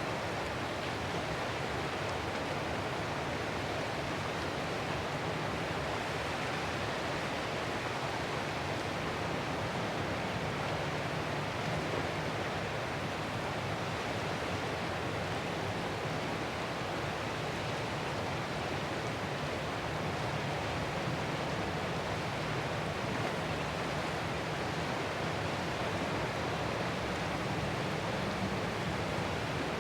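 Steady, even rushing of ocean surf, with no separate wave crashes standing out.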